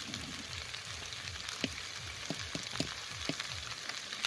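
Onions and vegetables sizzling as they fry in a kadai, with a metal spatula stirring and knocking against the pan several times in the second half.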